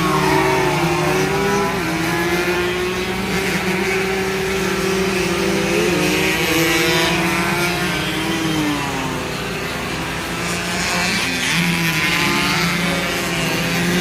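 Several two-stroke racing motorcycle engines running at high revs together. Their pitches rise and fall as the bikes accelerate, shift and pass.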